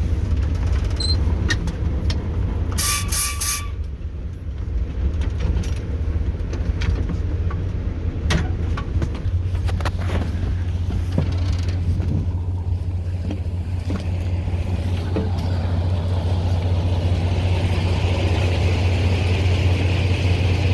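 YaMZ-236 V6 diesel of a TU6A narrow-gauge locomotive running steadily, a low hum heard from inside the cab, with scattered clicks and knocks. A short high-pitched squeal sounds about three seconds in.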